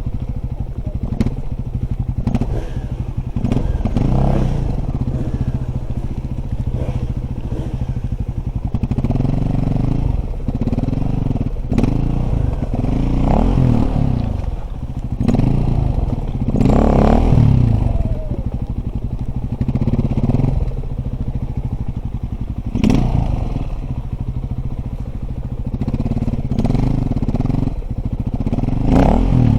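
Dirt bike engine running, rising in revs several times and easing off between, with short knocks and rattles throughout.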